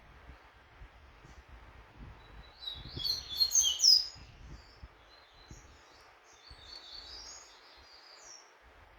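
Double-collared seedeater (coleiro) singing: a quick burst of high chirping notes, the loudest part, between about two and a half and four seconds in, then a softer run of twittering notes toward the end.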